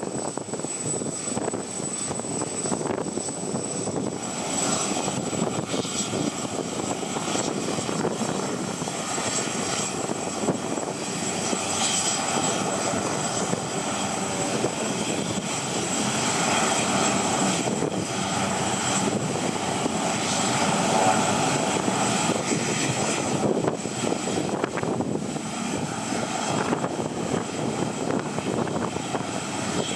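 Jet airliner engines running, with a thin high whine, mixed with heavy wind noise buffeting the microphone through its windjammer.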